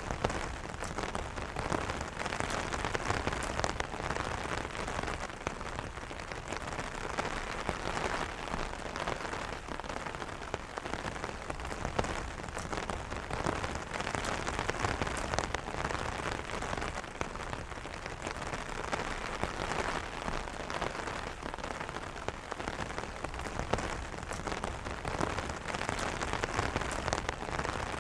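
Steady light rain pattering on an umbrella's fabric canopy, with many individual drops ticking sharply against it.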